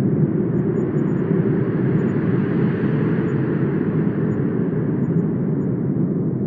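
Wind blowing steadily with a deep, even rush; a stronger gust swells near the middle and eases off again.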